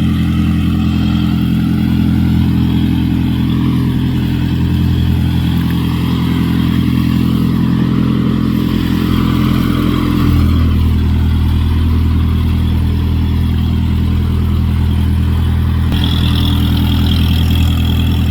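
A pest-control sprayer truck running loudly and steadily with a low engine drone. Its note shifts lower about ten seconds in, and a higher hiss joins near the end.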